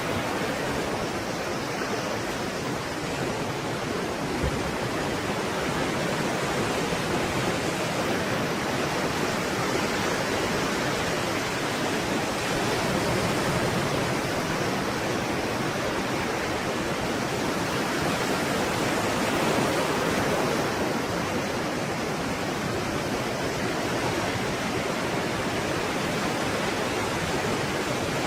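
Stormy sea surf: a dense, steady wash of breaking waves, swelling slightly in loudness twice without any distinct single crash.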